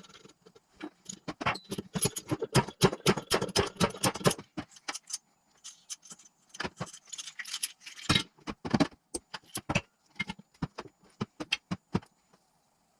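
Metal engine parts and hand tools clinking and tapping against each other in quick, irregular clicks. The clicks are densest in the first four seconds, then come in sparser clusters with short quiet gaps.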